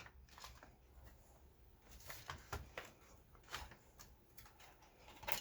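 Faint, irregular clicks and light taps, spaced out and not in a steady rhythm, from objects being handled.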